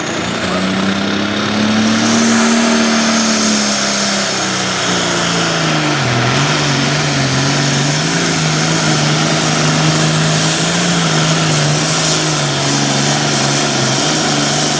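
Diesel engine of a John Deere 466-class hot farm pulling tractor at full throttle, hauling a weight sled down the track. The engine pitch climbs over the first couple of seconds, sags about six seconds in as the sled bears down, then holds steady, with a high whistle rising above the engine.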